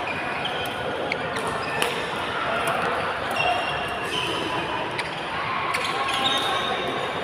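Badminton play in an indoor sports hall: shoes squeaking on the court floor and sharp racket hits on the shuttlecock, over a background of voices echoing in the hall.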